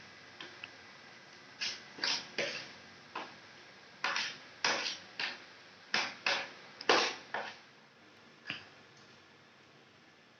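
Close-miked eating noises from someone eating spicy fried instant noodles (Mie Sedaap Goreng Pedas): a run of about a dozen short, hissy mouth sounds, then quieter near the end.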